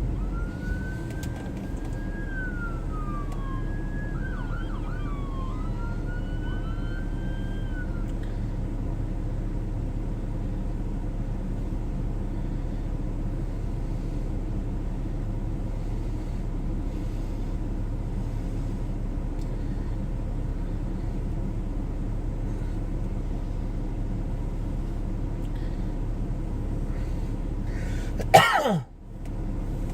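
Police siren giving several short wails that rise, hold and drop away during the first several seconds, over the steady low hum of an idling car heard from inside the cabin. A sudden loud burst, falling in pitch, comes near the end.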